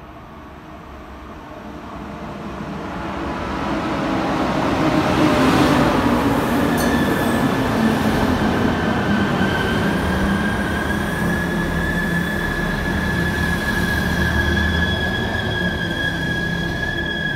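An Alstom Coradia LINT 41 diesel multiple unit (DB class 1648) pulling into the station. It grows steadily louder as it approaches and runs past, then a steady high-pitched squeal from the wheels and brakes sets in about six seconds in and holds as it slows.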